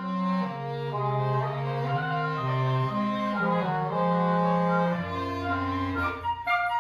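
Wind quintet playing a legato passage of held chords, with a low line moving underneath and a lower bass note entering about five seconds in; short detached notes start up near the end.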